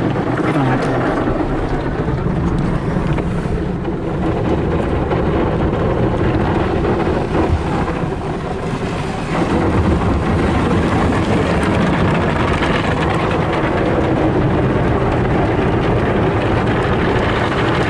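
Sonny's automatic tunnel car wash equipment working over a car, heard from inside the cabin: a loud, steady rush of water spray and washing gear on the body, growing a little heavier about halfway through.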